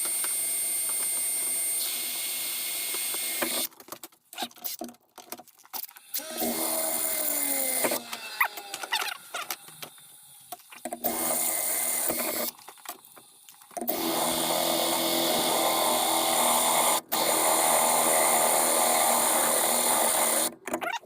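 Power drill running a step bit through a metal bracket. It runs steadily, then stops and restarts in short bursts with a few brief rises and falls in speed, then runs steadily again for several seconds before stopping near the end.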